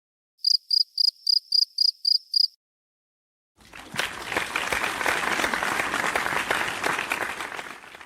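Two sound effects in turn. First, a cricket chirping: eight evenly spaced high chirps over about two seconds. Then, after a second of silence, applause for about four seconds that fades out at the end.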